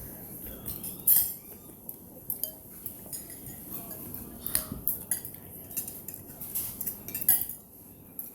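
Cutlery clinking and scraping against bowls while eating noodle soup: scattered light clicks at an uneven pace, the sharpest about a second in and again near the end.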